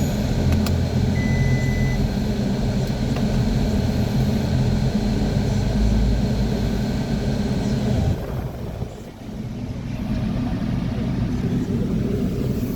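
Mazda 3's 1.5-litre four-cylinder petrol engine idling steadily. The sound drops away briefly about two-thirds of the way through, then picks up again more quietly.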